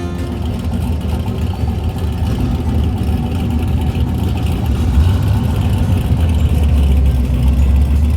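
A street-race hot rod's engine rumbling with a heavy, low-pitched note that grows steadily louder.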